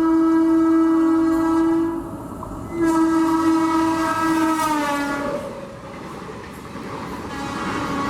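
Indian Railways locomotive air horn sounding two long blasts; the pitch of the second drops as it ends, the sign of a train passing at speed. After it comes the rushing noise of the train going by.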